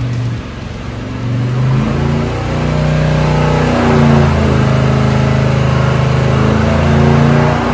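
Carbureted LT1 V8 running under load on an engine dyno, its speed stepping up and down between about 3,000 and 3,500 rpm, on richer carburetor jetting.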